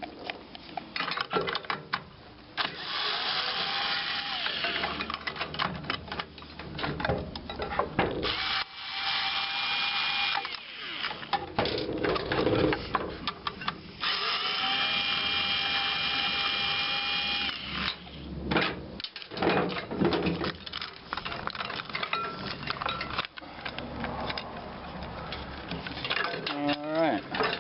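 Power drill running in three bursts of a few seconds each with a steady motor whine, removing bolts, with metal clinks and knocks in between.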